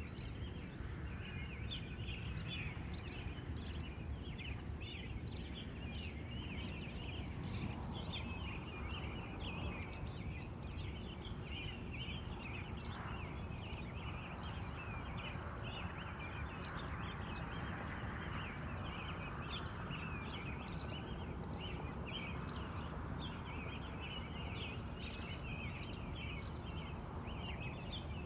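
Pre-dawn bird chorus: many short bird chirps and calls, repeated without a break, over a steady high insect trill and a low background rumble.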